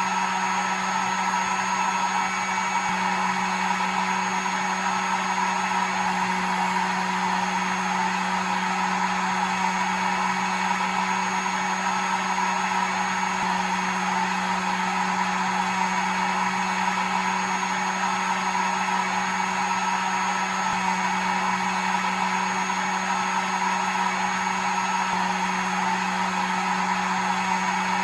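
Hair dryer running steadily: an even motor hum under a constant rush of air, with no change in speed.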